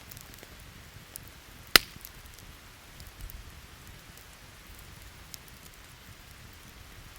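Wood campfire crackling under steady rain, with one loud, sharp pop about two seconds in and a few faint ticks.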